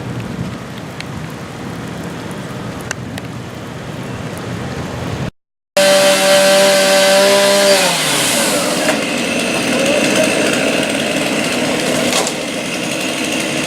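Steady rushing noise, then, after a cut, a small high-revving engine holding a steady pitch that winds down about two seconds later.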